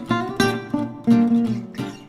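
Background music of an acoustic guitar playing a run of plucked notes, several a second, each ringing briefly after it is struck.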